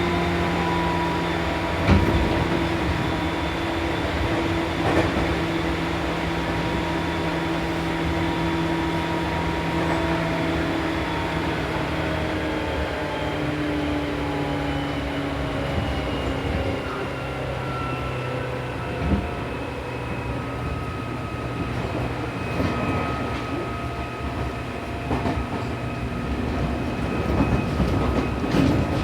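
Seibu New 2000 series EMU heard from inside the car as it slows on the approach to a station: rumble and wheel-on-rail clatter under several electrical tones that fall slowly and in steps as the train brakes. There are a few short knocks, and it grows a little louder near the end.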